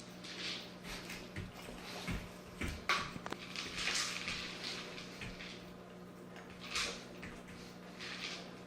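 Doberman puppy working a KONG Wobbler food toy for its kibble: irregular rattling, crunching and light knocks, busiest in the middle, over a faint steady hum.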